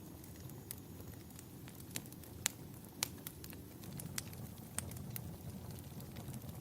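Wood fire burning in a fireplace, crackling with irregular sharp pops, the loudest two about two and a half and three seconds in, over a steady low rumble.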